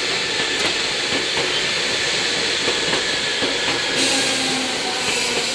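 Seibu 10000-series Red Arrow limited-express electric train passing close by, with a steady hiss of running noise and irregular wheel clicks over the rails.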